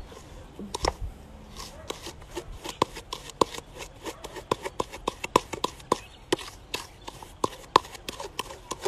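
Wooden spoon beating firm butter and sugar in a mixing bowl, creaming them together: a quick, uneven run of knocks and scrapes against the bowl, about four a second.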